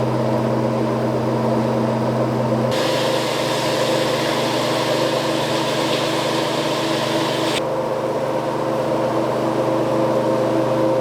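A machine's motor running steadily with an even hum. A hiss cuts in suddenly about a quarter of the way through and drops out again past the middle.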